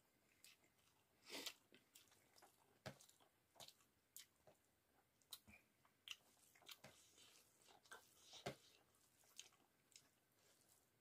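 Faint close-up chewing and mouth sounds of a person eating rice with cauliflower and potato curry, a scatter of irregular wet smacks and clicks.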